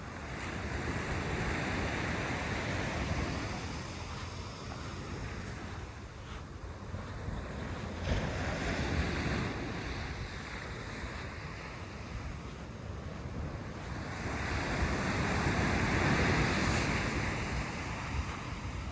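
Ocean waves breaking and washing up the beach in slow swells, with wind noise on the microphone.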